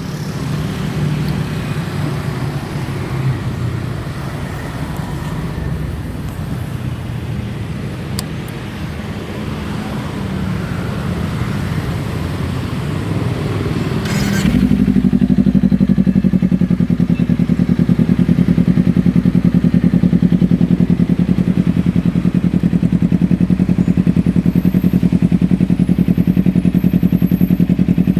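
2018 Kawasaki Ninja 250's parallel-twin engine idling through a LeoVince LV10 slip-on exhaust. About halfway through, after a brief click, the idle becomes louder and steadier with an even, rapid pulse.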